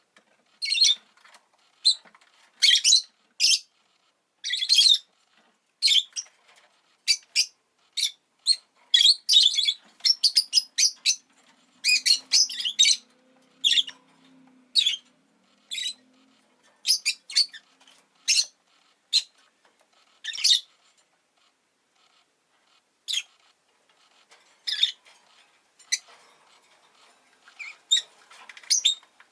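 Rosy-faced lovebird chirps: short, high-pitched calls in quick irregular runs, with a pause of a couple of seconds past the middle.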